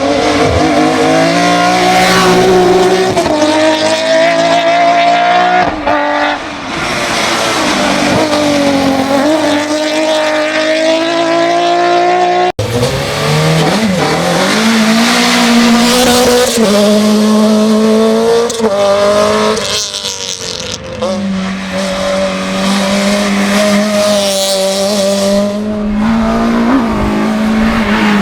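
Hill-climb race car engines at full throttle, the pitch climbing and dropping back with each gear change: first a BMW 135, then, after an abrupt cut about twelve seconds in, a Renault Clio.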